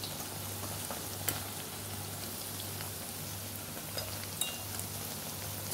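Food frying in hot oil in a pot, a steady sizzle with a few small crackles, over a steady low hum.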